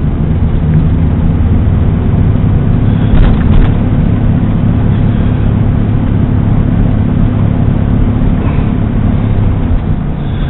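Pickup truck's engine and road noise heard from inside the cab while driving, a steady low rumble with a couple of faint clicks about three seconds in.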